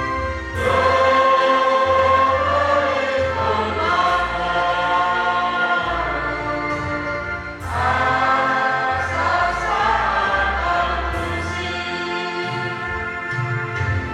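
A choir or congregation singing a hymn in harmony over sustained low accompaniment notes, with new phrases beginning about half a second in and again near eight seconds in.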